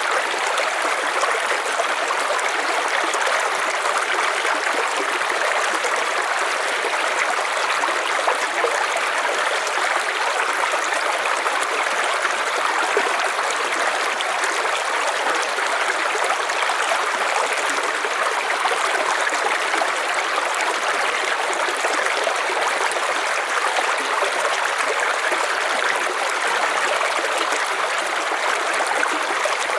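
River water flowing steadily over stones: a constant, even rush of running water with no let-up.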